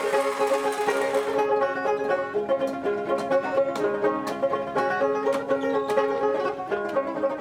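Dotara music: a plucked, skin-bellied folk lute playing a quick melody over steady held notes, with sharp, bright plucks. A high hiss runs under it at first and cuts off about a second and a half in.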